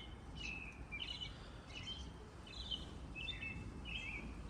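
A bird chirping: short, high calls repeated about every half second to a second, over a low, steady outdoor rumble.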